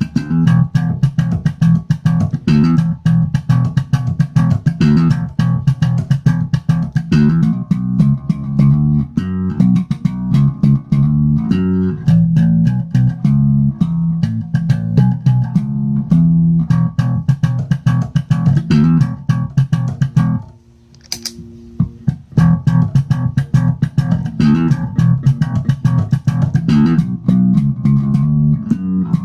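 Electric bass guitar played through a Hikari compressor, a busy line of plucked notes at a fairly even loudness. The playing briefly drops out about two-thirds of the way in, then resumes.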